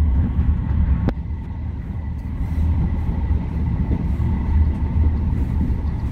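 Busan Metro Line 4 rubber-tyred train running along its concrete guideway, heard from inside the car: a steady low rumble with a faint steady whine over it, and one sharp click about a second in.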